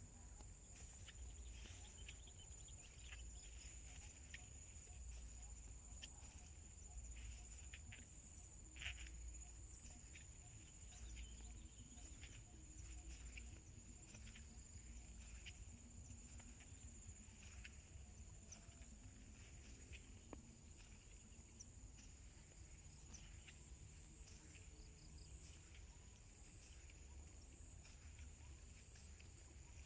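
Faint, steady high-pitched drone of insects, with scattered soft clicks, one a little louder about nine seconds in.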